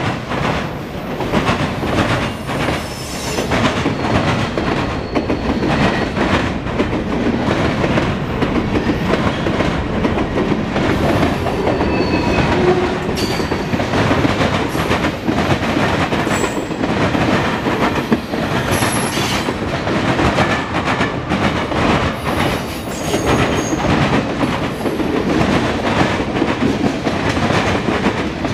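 Freight cars of a mixed freight train rolling past close by: a steady rumble of steel wheels on the rails with a constant stream of clicks and clanks, and a few brief, faint high squeals here and there.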